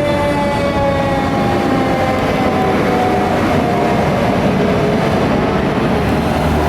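Fire engine siren holding one tone that slowly falls in pitch, over a steady low rumble of engine and road noise.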